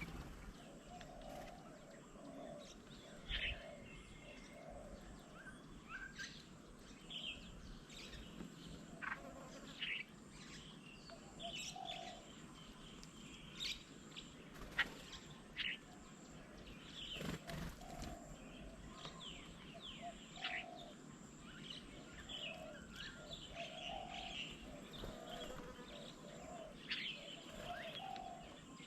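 Mixed birdsong from several birds: many short high chirps and whistles, with a low note repeated in a run near the start and again in the second half. Two sharp knocks come about halfway through.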